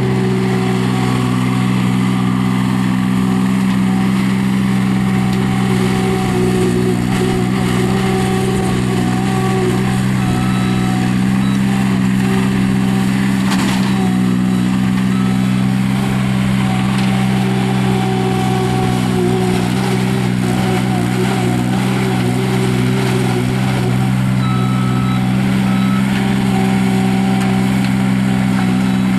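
Kubota three-cylinder turbo diesel in a Terramite T9 loader backhoe running at a steady speed, with fainter higher tones coming and going over it.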